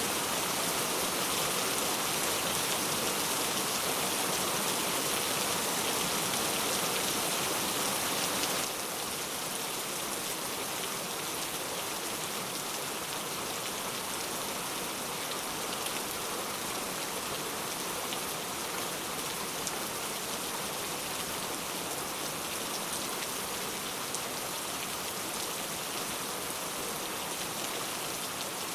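Heavy rain falling steadily, a dense even hiss with scattered individual drop ticks. The level drops abruptly about a third of the way in, then holds steady.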